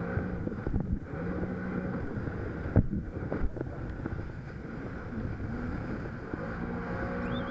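Jet ski engine running under way, its pitch rising and falling with the throttle, with wind on the microphone. A sharp knock about three seconds in is the loudest sound, and a high warbling tone starts just before the end.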